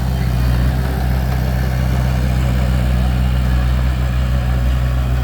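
Bulldozer engine running steadily with an even low hum, no revving.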